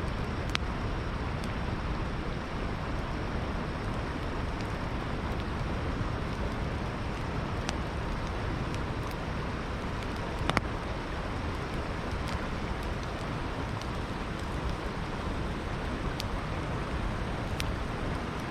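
Campfire crackling with a few sparse sharp pops, the loudest about ten seconds in, over a steady rush of flowing river water.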